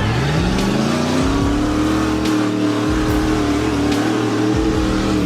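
A vehicle engine revving up, its pitch rising over about a second and a half, then holding steady at high revs.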